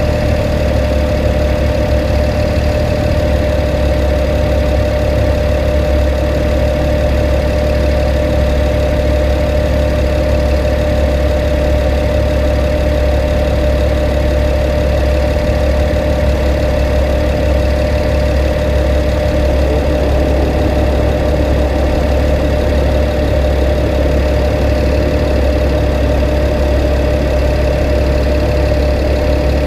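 BMW 335is's N54 twin-turbo straight-six running steadily: an even engine drone with a constant mid-pitched hum over it, unchanging throughout.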